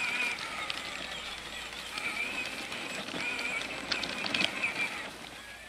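Ride-on toy tractor's electric motor and gearbox whining as it drives, the whine stopping and starting, with a cluster of clicks and knocks about four seconds in as it goes over bumpy, rocky ground. The whine dies away near the end.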